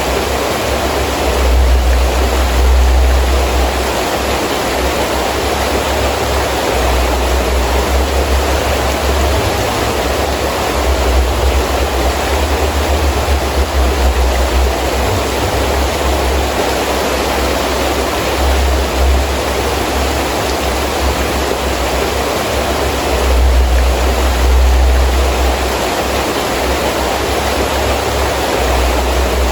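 Heavy rain pouring steadily, with gusts of wind that rise in a low rumble now and then, strongest about two seconds in and again a few seconds before the end.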